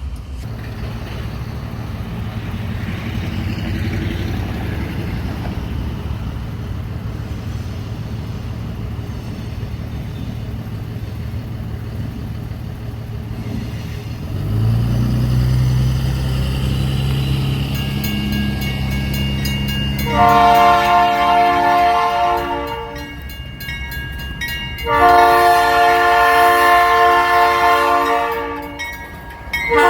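GE B39-8E diesel-electric locomotives running, their 16-cylinder engines rumbling steadily, then notching up louder about halfway through. Two long blasts of the locomotive's multi-note air horn follow, about three seconds each, and a third blast begins at the very end.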